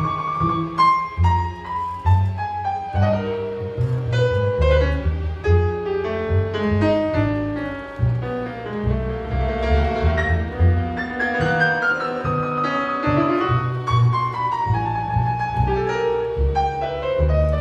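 Piano and string orchestra playing together in a live piano concerto performance: piano lines move over heavy low strings.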